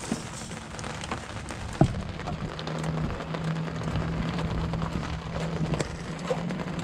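Rain pattering, with many scattered drop ticks. A steady low hum joins in about two seconds in.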